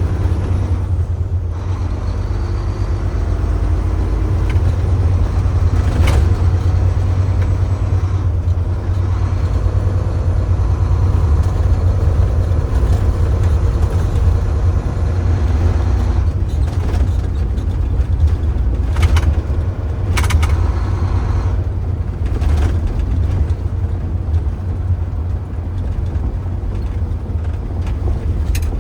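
Tractor-trailer truck cruising at about 50 km/h: steady low engine and road noise, with a few short knocks along the way.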